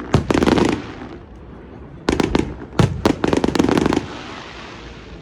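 Fireworks going off in three clusters of sharp bangs and crackles. The longest volley crackles for about a second near the middle.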